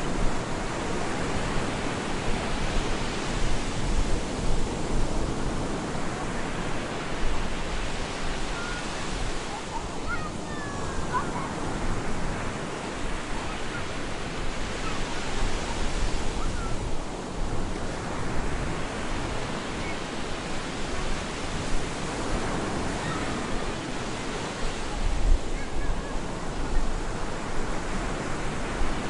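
Stormy surf breaking continuously on a beach, a steady wash of waves that swells and ebbs in slow cycles several seconds apart.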